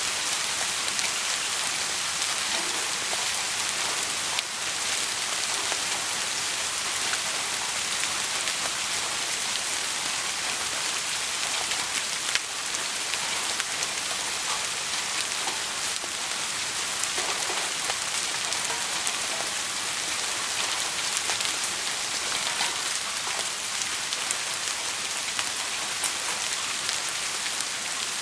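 Steady rain, an even hiss with scattered sharp ticks of drops.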